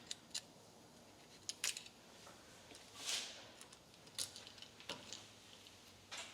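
Light clicks and clinks of small metal parts being handled on a workbench, scattered and irregular, with a short scrape about three seconds in.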